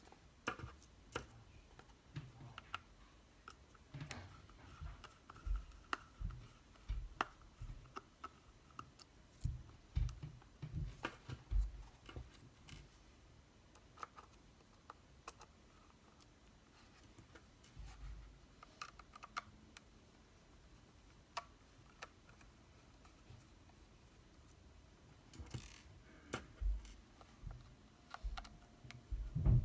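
A Phillips screwdriver backing small screws out of a plastic wireless charger housing, with irregular light clicks, scrapes and soft knocks as the screwdriver and the case are handled.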